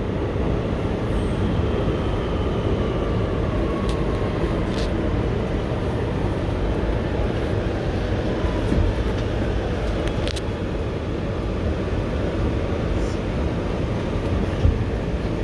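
Inside an R211T subway car: the steady rumble and hum of the train, with a faint whine falling in pitch over the first few seconds and a few light clicks.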